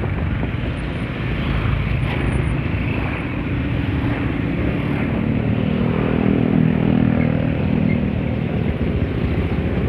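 Scooter engine running while riding, with road and wind noise; the engine note grows stronger and a little louder about halfway through as it picks up speed.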